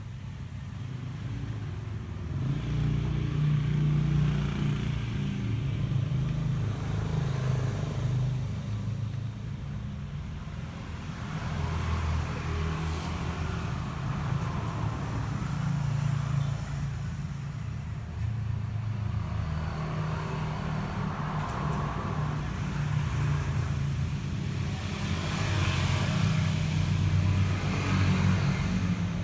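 A motor vehicle engine running steadily, swelling louder several times.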